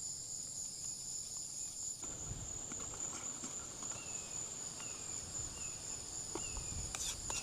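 Insects keep up a steady high trill. From about two seconds in there is soft scraping with scattered clicks, and near the middle a faint short falling chirp starts repeating about once a second.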